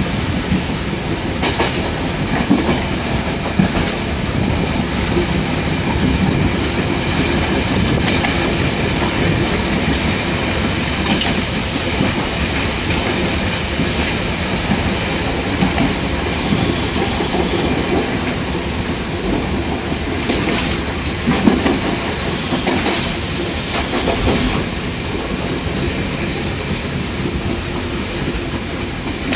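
Class S9 diesel multiple unit running along the track, heard from inside the driver's cab: a steady rumble with the clickety-clack of wheels over rail joints and scattered sharper knocks.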